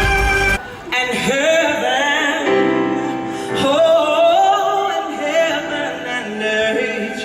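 Singers performing with vibrato over musical accompaniment. A held instrumental chord cuts off about half a second in, and the voices carry on alone through the rest.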